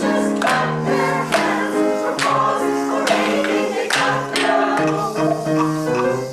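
A choir of several voices singing a song in harmony, with sustained notes and regular percussion strikes marking the beat.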